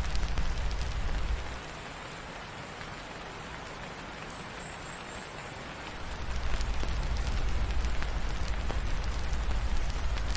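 Steady rain with scattered small crackles from a fireplace. A deep low rumble under the rain drops away about a second and a half in and comes back about six seconds in.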